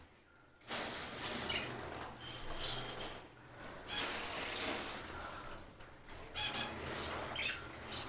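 Small cage birds chirping in short high calls every second or two, over a soft rustling noise.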